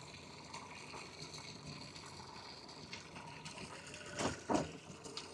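Boat bilge pump running and pumping water out: a faint, steady rush of water. Two brief louder noises come about four seconds in.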